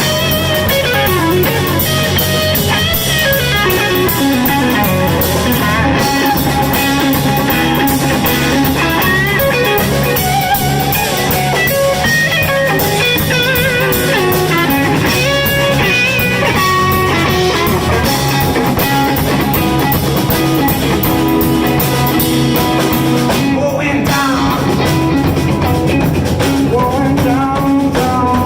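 A live blues band playing loudly, electric guitar carrying the lead with bending notes over drum kit and bass.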